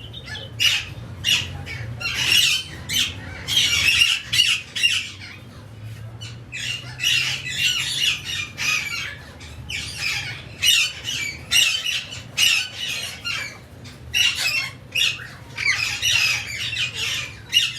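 Many birds calling in rapid, scratchy bursts, one after another, over a steady low hum.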